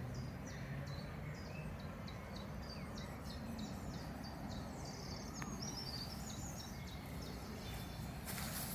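Small birds chirping, repeated short high notes a few times a second with a brief warbling phrase midway, over a steady low rumble. A crackling, rustling burst comes just before the end.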